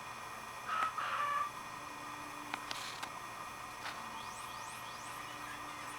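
Lutino male cockatiel giving a short two-part call about a second in, followed by a few faint clicks and soft high rising chirps.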